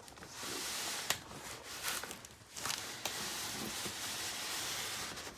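Cardboard shipping box being opened and handled: two long stretches of scraping, rustling cardboard, the second about two and a half seconds long, with a couple of sharp clicks.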